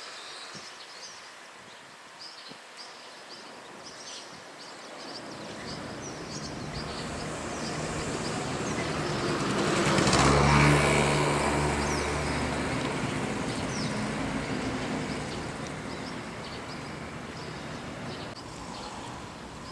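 A motor vehicle passing by: its engine and tyre noise swell up, peak about halfway through and slowly fade. Small birds chirp throughout.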